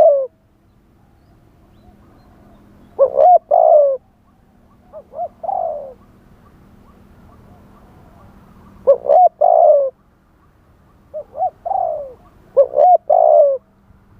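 Spotted dove cooing, about five repeated phrases a few seconds apart. Each phrase is two or three short notes and then a longer falling coo.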